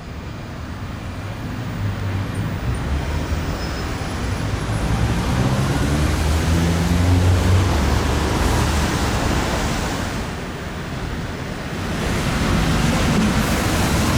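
Low vehicle rumble over a steady rushing noise, building to a peak in the middle, easing about ten seconds in and then rising again.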